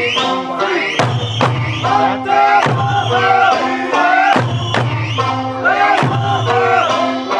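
Okinawan Eisa music: a sung folk melody over hard drum strikes, with group shouts.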